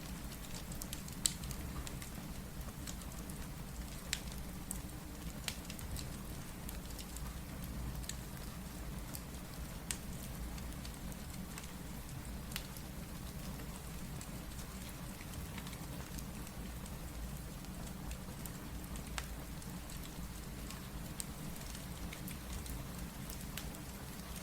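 Steady rain with a low rumble, with irregular sharp pops and crackles of a wood fire scattered through it, the sharpest about a second in.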